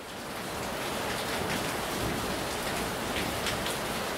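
Heavy rain pouring down onto a tiled porch: a steady, even hiss with scattered close drops splashing. It swells up over the first second, then holds steady.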